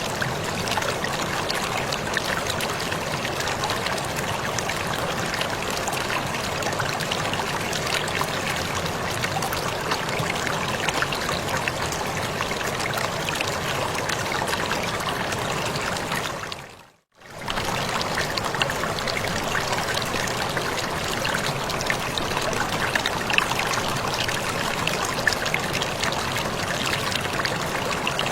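Steady rush and splash of falling water from a waterfall, with small droplet splashes throughout. About two-thirds of the way through it fades out to near silence for under a second and comes straight back.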